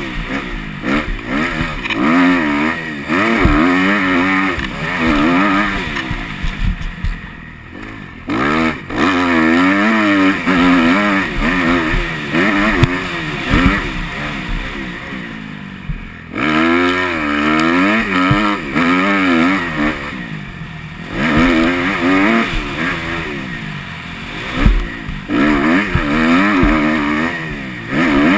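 Motocross bike engine revving up and down as it is ridden on a dirt track, pitch rising and falling with the throttle again and again, with brief throttle-offs about a third of the way in, near the middle and about two thirds in. Scattered thuds run through it.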